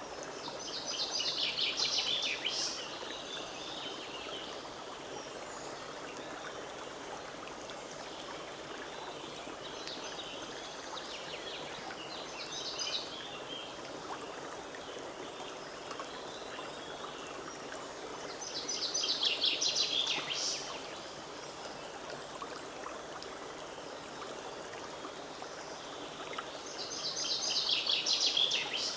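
Forest stream running steadily over stones, with a songbird singing a short, bright phrase about every eight seconds, four times; the second phrase is fainter.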